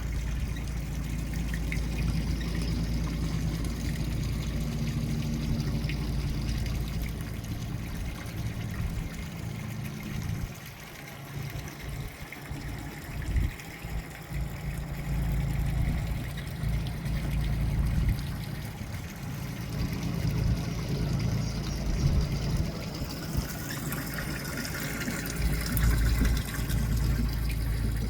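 Water trickling and lapping, over a low, uneven rumble.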